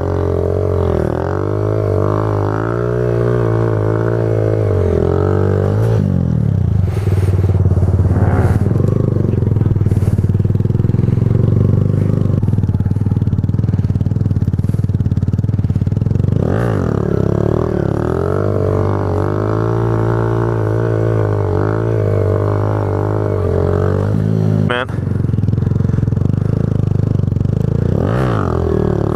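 Small motorcycle engine running steadily, its pitch rising and falling several times as the throttle is worked while the bike is ridden.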